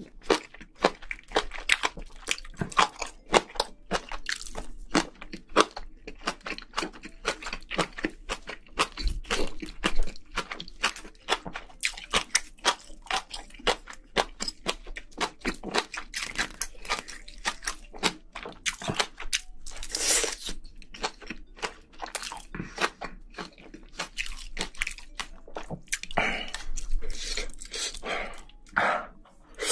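Close-miked chewing of spicy braised seafood and rice: a steady, irregular run of crunching and wet mouth clicks.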